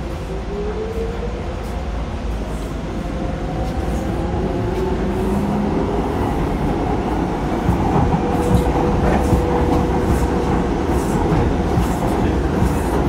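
Docklands Light Railway train heard from inside the carriage as it pulls away. The electric traction motors whine, rising in pitch over the first few seconds, while the rumble of wheels on rail grows steadily louder, with light clicks in the second half.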